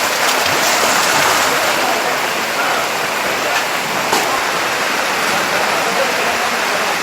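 Steady loud rush of fast-flowing water, with faint voices in the background.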